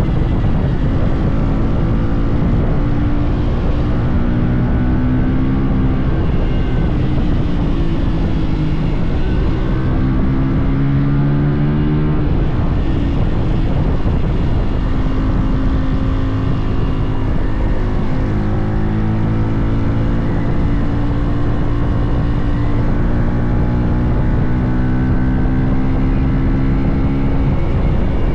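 Hero XPulse 200 4V motorcycle's single-cylinder engine running under way. Its pitch climbs and drops back again and again as the bike accelerates and changes gear.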